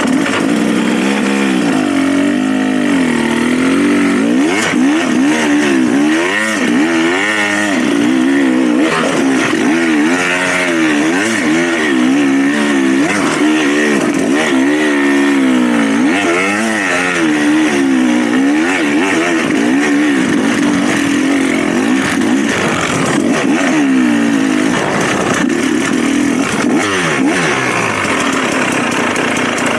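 Dirt bike engine being ridden, its revs rising and falling every second or two as the throttle is worked over the trail.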